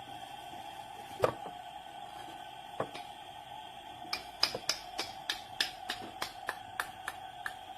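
Sharp clicks over a steady faint hum: one loud click about a second in, another a little before three seconds, then a quick, uneven run of about a dozen lighter clicks.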